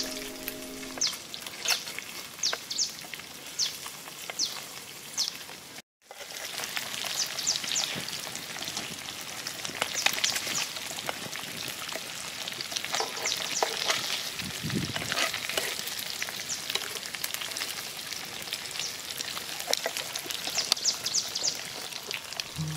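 Fish pieces sizzling in a clay pot over a wood fire, with a steady hiss and many sharp crackles and pops. The sound cuts out for a moment about six seconds in.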